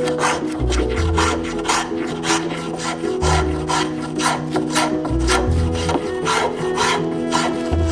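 Hand tool working hardwood in regular rasping strokes, about three a second, as the laminated tiller is shaped, over background music with a steady bass line.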